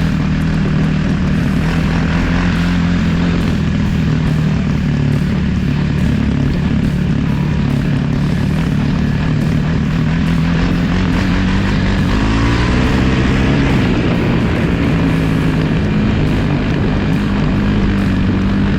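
Dirt bike engine running steadily at a constant pitch, with the pitch shifting briefly about twelve seconds in.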